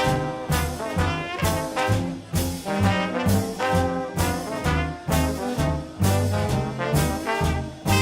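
Live swing band playing an instrumental chorus with no singing. Brass leads, with trombone and trumpet prominent, over low bass notes that change on every beat and a steady swing beat.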